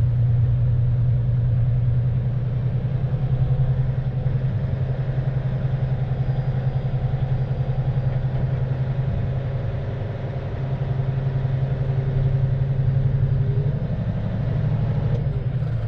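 Heavy-duty tow truck's diesel engine running steadily with a deep, even hum.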